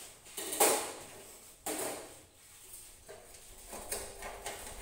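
Stainless steel gas stove parts being handled and set in place: a few sudden knocks and scrapes of metal on metal. The loudest is about half a second in, with another just under two seconds in.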